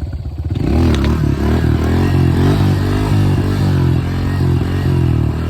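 Honda CRF125F's single-cylinder four-stroke engine revved up hard in first gear about a second in, then held at high revs with the pitch wavering as the throttle is worked, as the rider launches a wheelie.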